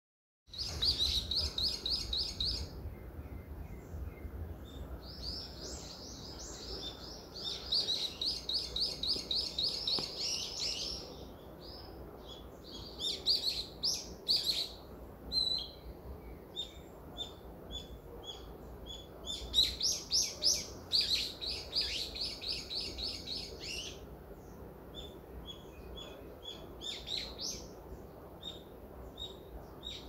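Songbirds chirping: several fast trills of rapidly repeated high notes lasting a few seconds each, with scattered single chirps between them.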